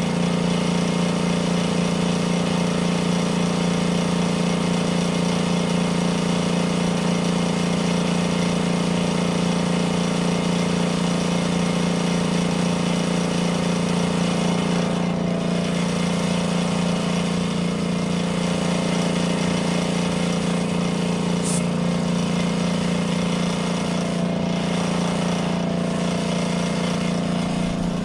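Demonstration air-conditioning unit running: its refrigeration compressor and cooling fan give a loud, steady hum with a fast buzz underneath.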